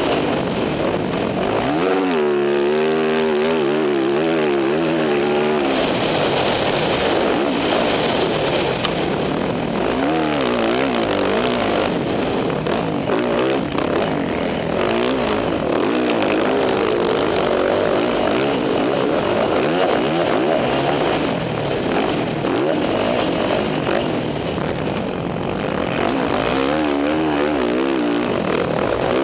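Motocross dirt bike engine revving up and down over and over as the rider works the throttle and gears, over steady wind rush.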